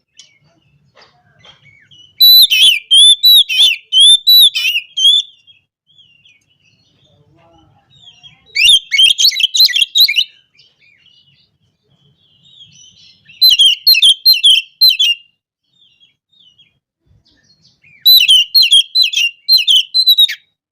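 Oriental magpie-robin (kacer) singing loudly in four bursts of rapid, varied whistles and chirps, each about two seconds long with short pauses between. It is the excited 'ngobra' song that bird keepers use to call out and provoke rival males.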